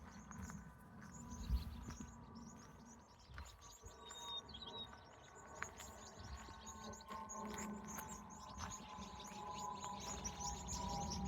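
Small birds chirping and twittering in a dense, continuous chorus of short high notes, with a brief separate call about four seconds in, over a low rumble. A few steady, lower tones join in during the second half.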